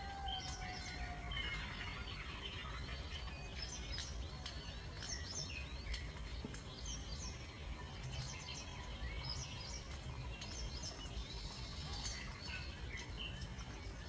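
Scattered short, high-pitched bird chirps and twitters, over a steady low rumble.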